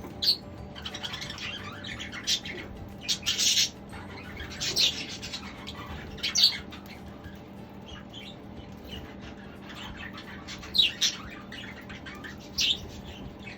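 Budgerigars in an aviary chirping and squawking in short, scattered calls, with a faint steady hum beneath.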